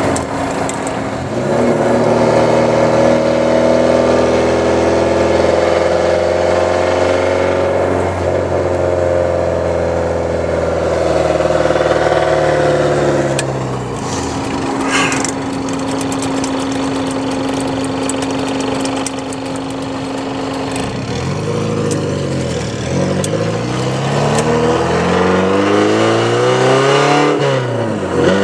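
1983 Porsche 944's 2.5-litre four-cylinder engine running through a straight-piped exhaust. Its pitch rises and falls as the revs go up and down, holds steady for several seconds in the middle, then sweeps up and down again near the end.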